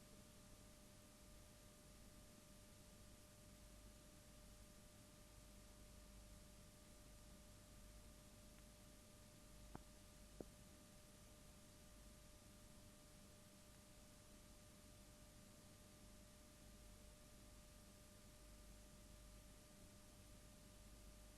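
Near silence: faint steady hiss with a thin steady hum-like tone, and two faint clicks about half a second apart around the middle.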